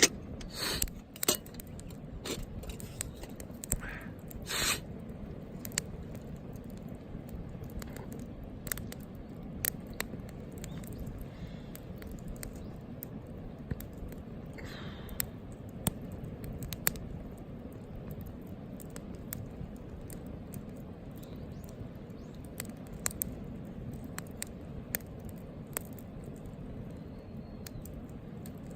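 Wood campfire crackling, with sharp pops at irregular intervals and a few short hisses from the burning wood.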